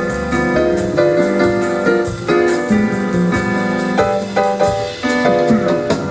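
Live jazz combo playing, with piano chords and runs to the fore over bass and drums.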